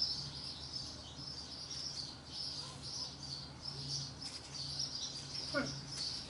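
Small birds chirping steadily in quick, repeated high notes over a faint steady low hum, with one brief falling tone about five and a half seconds in.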